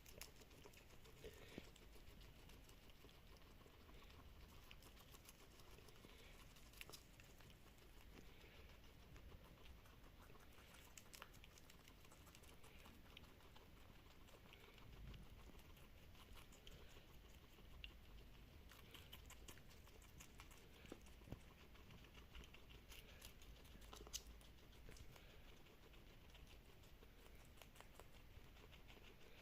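Guinea pigs eating fresh vegetables, heard faintly as scattered soft crunching and nibbling clicks.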